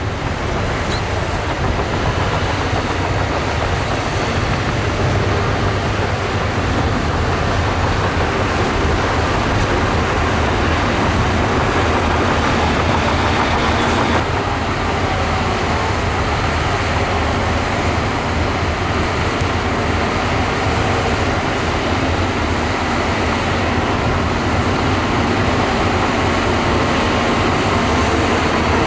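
Heavy diesel engine of a crawler bulldozer running steadily under load.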